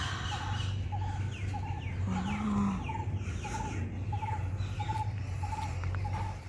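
A bird calls the same short note over and over, a little under two a second, above a steady low hum. About two seconds in comes a single brief low call.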